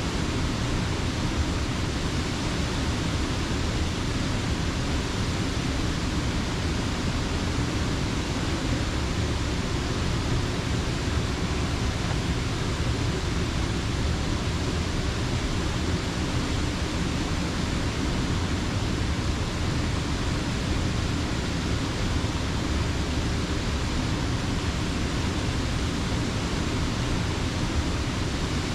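Water of Slippery Rock Creek rushing steadily, a constant full-bodied wash of noise that does not change.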